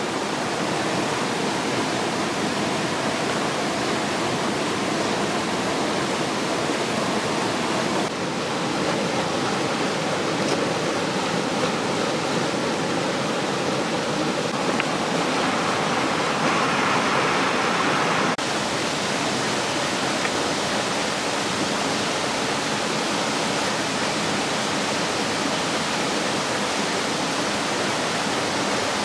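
Steady rush of a waterfall. The sound shifts abruptly twice, about eight and eighteen seconds in, and a brighter hiss is added for a few seconds just before the second shift.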